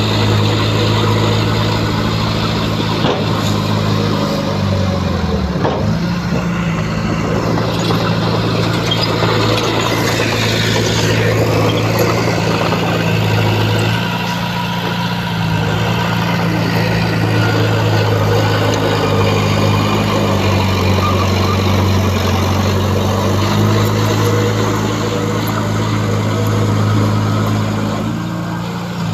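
Heavy diesel engine of earthmoving machinery running continuously under load, its pitch dipping and rising as the revs change, with a marked dip about five to six seconds in and further shifts around fourteen and twenty seconds in.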